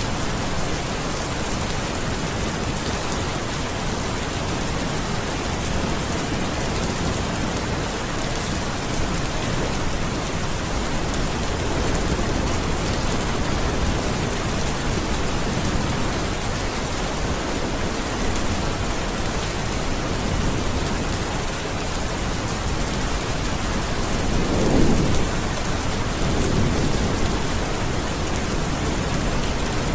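Steady heavy rain falling, a dense even hiss. A low rumble of thunder swells and fades about three-quarters of the way through.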